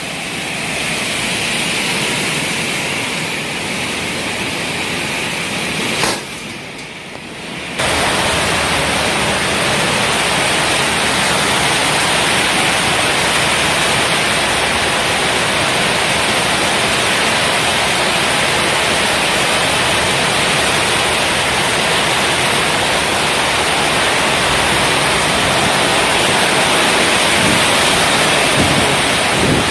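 Heavy tropical downpour: a steady rush of rain. It drops briefly about six seconds in and comes back louder about two seconds later.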